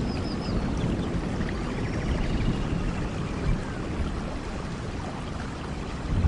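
Steady heavy rainfall, with a low rumble underneath and a few faint high chirps near the start.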